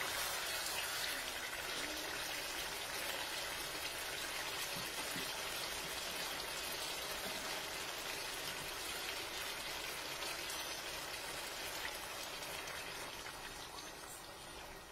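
Chicken curry sizzling in a wok: a steady sizzle that grows fainter over the last few seconds.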